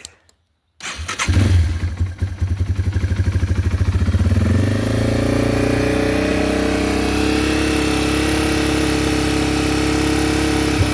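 Yamaha TW200's air-cooled single-cylinder four-stroke engine cold-started with the choke pulled, catching about a second in. It runs with a loud, strong pulsing beat for a few seconds, then settles into a steady fast idle on choke, its pitch rising slightly before holding as it begins to warm up.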